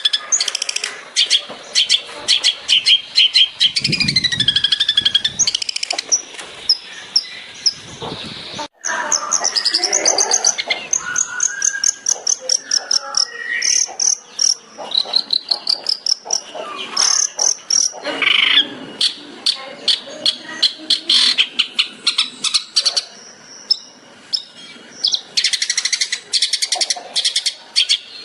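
Long-tailed shrike (cendet) singing a fast, varied song: rapid runs of short, sharp notes alternating with rising and falling whistled slides.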